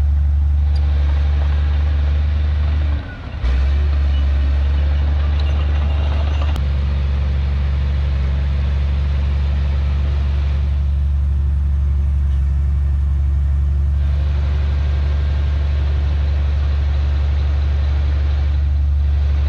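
Heavy diesel engine of earthmoving machinery running steadily with a deep, even hum. The level dips briefly about three seconds in.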